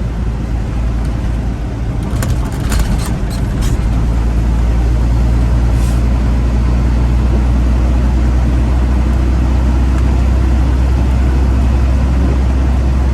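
Cab interior of a Freightliner Classic XL with its diesel engine running as the truck drives, a steady low drone that grows louder about four seconds in. A few short clicks sound between about two and four seconds in.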